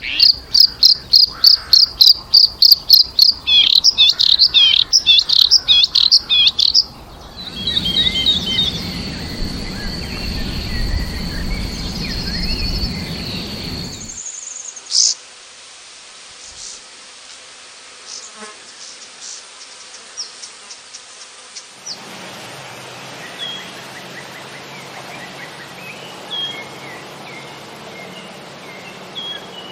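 Wild birdsong from several spliced field recordings. First a rapid series of loud, high, repeated calls, several a second, for about seven seconds; then a long high steady trill over a low rumble; then a quieter stretch of sparse chirps with one sharp call; and near the end faint scattered chirps over a low hum.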